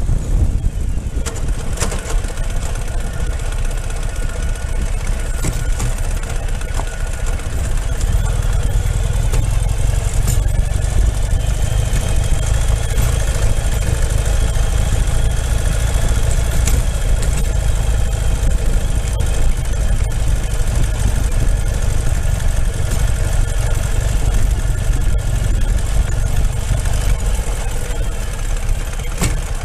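Ural motorcycle's flat-twin engine running steadily, with a deep, even low rumble.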